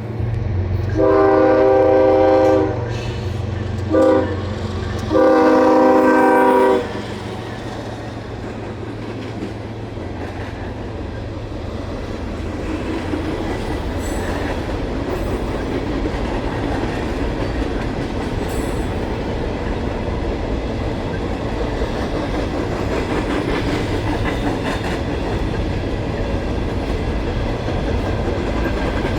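Locomotive air horn sounding three blasts, long, short, long, over the low rumble of diesel locomotives, from a Norfolk Southern ES44DC and AC44C6M pair. After the horn the locomotives and a train of empty coal gondolas and hoppers roll past with a steady rumble and wheel clatter on the rails that slowly grows louder.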